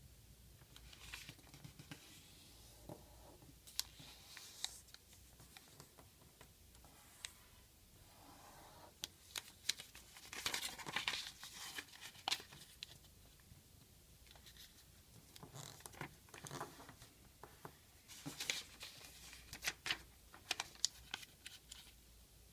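A sheet of origami paper being folded and creased by hand: intermittent crinkling rustles and short crisp snaps of the paper, busiest about halfway through and again near the end.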